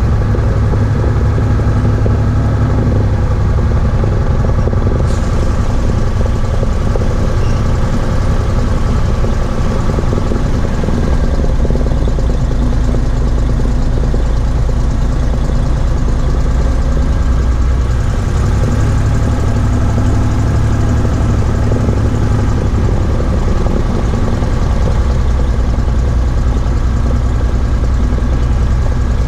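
Cessna 172H's six-cylinder Continental O-300 piston engine and propeller running steadily and loudly, with no change in power.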